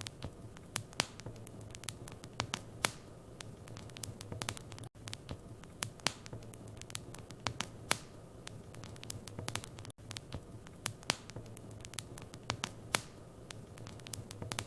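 Wood fire crackling in a fireplace: irregular sharp pops and snaps over a steady low hum. The sound cuts out briefly about every five seconds.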